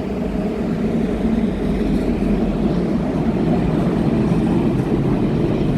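Train pulling into the platform, a steady low rumble that grows slightly louder.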